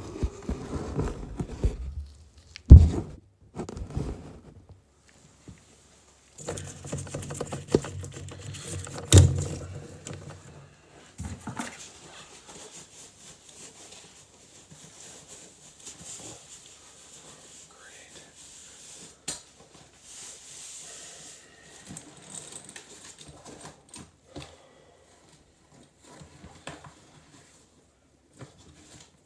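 Irregular knocks, clicks and rattles of handling work, with two sharp, loud thumps about three and nine seconds in, and a stretch of low hum and rattling between them.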